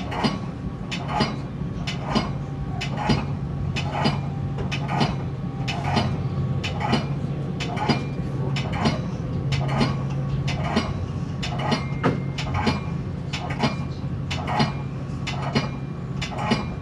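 Metra commuter train wheels clicking over rail joints in a steady rhythm, a strong click about once a second with lighter ones between, over a steady low hum of the moving train.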